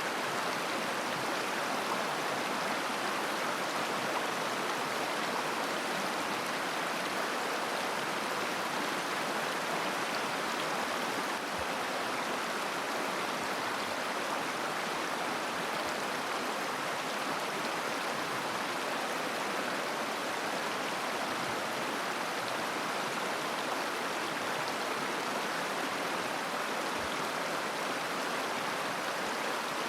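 Steady rush and babble of a mountain river flowing over stones, an even sound with no change in strength.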